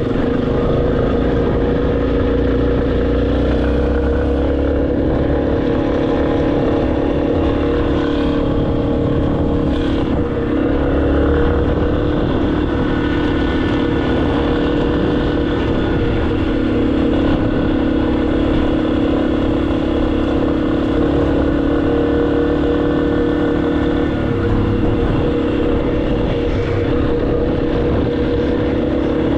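Motorcycle engine running at a steady pitch while riding, with the note shifting slightly about ten seconds in and again near the end.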